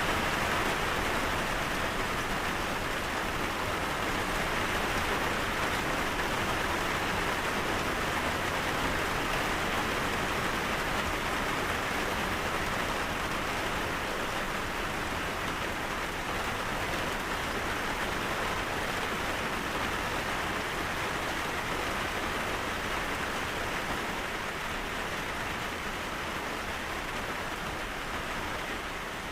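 Steady rain falling, an even hiss of drops on a surface, easing very slightly toward the end.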